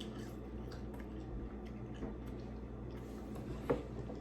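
Faint crunching and small clicks of a crunchy seaweed salt-and-vinegar snack being chewed, with one sharper click near the end.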